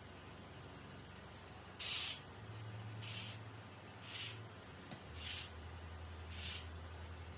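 A small pet bird giving raspy, hiss-like calls, five short ones about a second apart.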